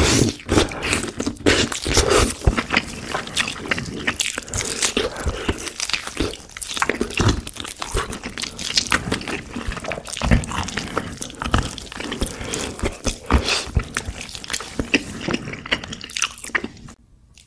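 Close-miked eating: biting braised pork back-rib meat off the bone and chewing it, with wet crunching and many sharp mouth clicks. It stops just before the end.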